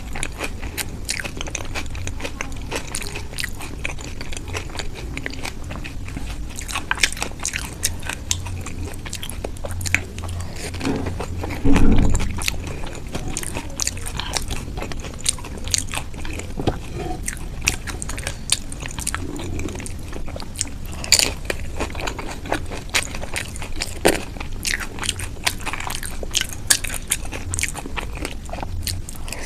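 Close-miked eating: steady chewing with many sharp, wet mouth clicks and crunches, and one louder low bump about twelve seconds in.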